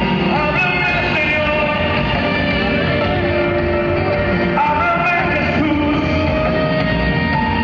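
Live rock-band concert music, with a sung melody over guitars and drums.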